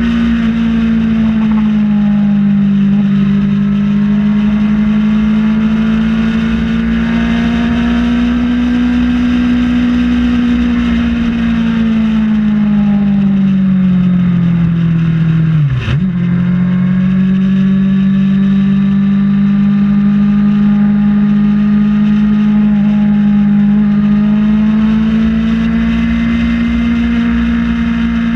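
Kawasaki ZX-6R inline-four sport-bike engine running at steady highway cruise, with wind rush over the bike. About halfway through, the engine note sinks for several seconds, then jumps back up with a short click, as at a gear change.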